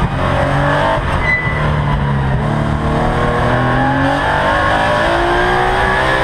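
Porsche 914/6 race car's air-cooled flat-six engine at full effort, heard from inside the cockpit. It revs and drops off as the car brakes and turns through the course, then pulls up steadily in pitch through the second half as it accelerates.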